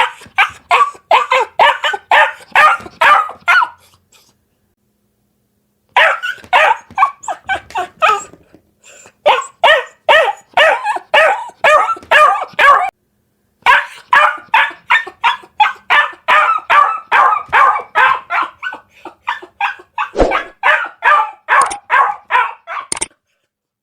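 Puppy yapping in fast runs of short, high-pitched barks, about three to four a second. It breaks off for about two seconds a few seconds in, and briefly again later.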